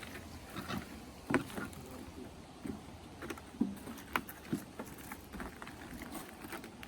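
Footsteps crunching through the woods, with a few sharp snaps of dry sticks breaking underfoot, loudest about a second and a half in and again about four seconds in.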